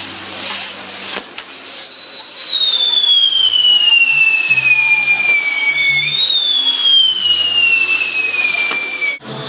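Whistling fireworks on a Mexican castillo: a loud, shrill whistle slides slowly down in pitch for about four seconds, then a second one takes over and falls the same way, over a steady hiss of burning pyrotechnics. The sound cuts off suddenly near the end.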